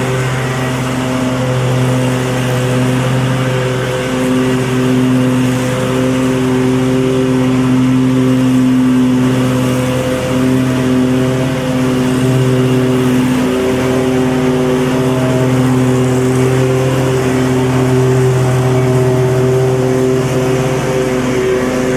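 Lawn mower engine running steadily, a continuous mechanical drone with a constant pitch.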